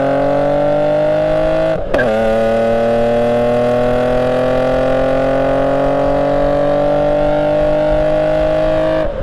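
BMW E34 525i inline-six running through its new glasspack and cherry-bomb exhaust under acceleration. The engine note climbs steadily in pitch. About two seconds in it breaks off briefly, drops back lower, and then climbs again through a long pull.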